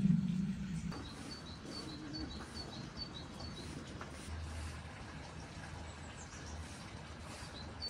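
A small bird chirping, a quick run of short high chirps at about four a second, over faint outdoor background noise. A low rushing noise stops about a second in.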